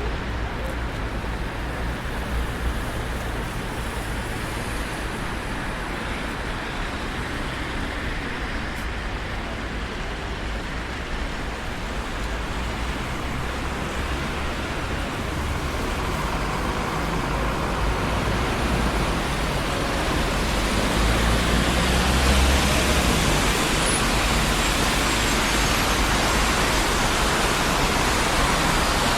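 Steady traffic noise from a busy city street: cars passing in a continuous rush of tyre and engine sound, building louder from about halfway through as a heavier flow or a large vehicle goes by.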